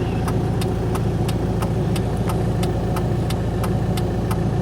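Car engine running steadily, with a sharp, regular tick about three to four times a second over it.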